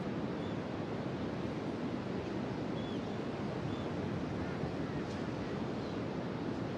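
Ocean surf breaking on the beach, a steady rushing wash of waves. A few faint, short, high chirps sound over it.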